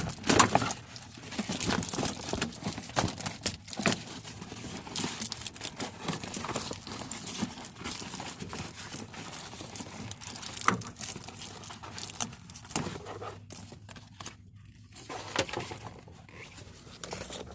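Irregular clicks, knocks and rustling of hands working inside a pickup truck's door on the window mechanism, with a voice now and then.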